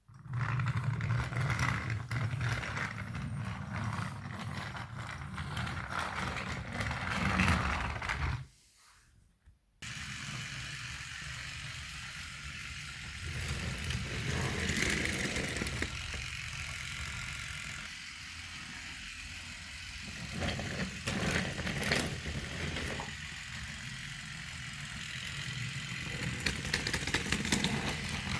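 Toy train running on its track: a small motor's steady whir with rattling and clattering wheels. It cuts out for about a second a third of the way through, then resumes abruptly.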